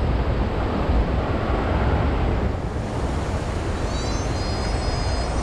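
Steady rush of river water with low wind rumble on the microphone. A brief high, thin call is heard near the end.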